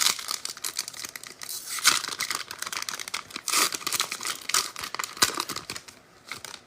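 Foil wrapper of a trading card pack being torn open and crinkled as the cards are handled: dense crackling and rustling that dies away near the end.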